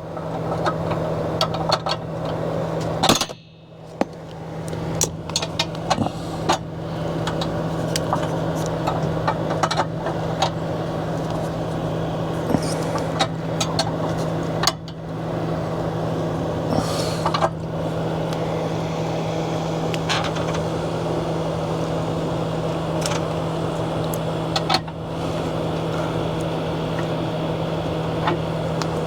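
A steady low motor hum runs under frequent sharp clicks and knocks from hands-on work on the awning arm hardware, with a brief drop in level about three and a half seconds in.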